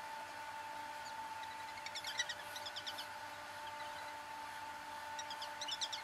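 A small bird chirping in two quick runs of short, high, falling notes, one about two seconds in and another near the end, over a steady faint hum.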